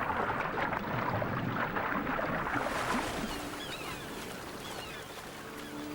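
Water churning and splashing, loudest in the first three seconds and then fading. Faint high chirps follow, and a sustained music chord comes in near the end.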